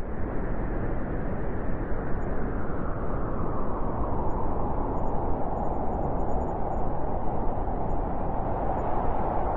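Blizzard wind blowing as a steady rushing noise.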